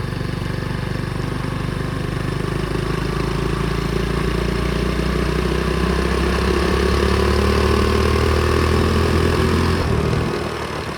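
Pit bike engine running steadily under way, getting a little louder through the middle, then falling away about ten seconds in.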